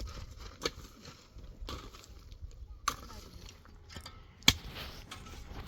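Stones knocking and scraping against each other as they are set in place and levelled in a dry-stone platform, with a few sharp clacks, the loudest about four and a half seconds in.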